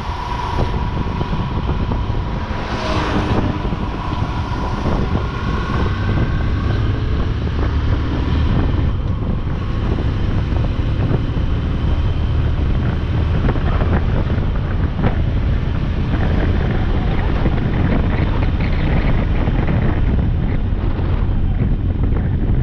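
Wind rushing over the microphone of a motorcycle riding at speed, with the motorcycle's engine and road noise running steadily underneath; a brief louder rush comes about three seconds in.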